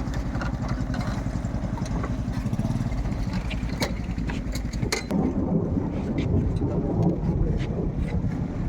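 Longtail boat engine running with a fast, steady low pulse, getting louder about five seconds in.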